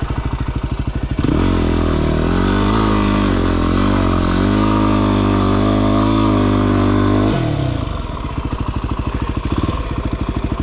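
Single-cylinder dirt bike engine idling, then revved up about a second in and held at high revs for about six seconds with a wavering pitch, then dropping back to idle. The bike is climbing in soft, loose soil where the rear tyre digs in.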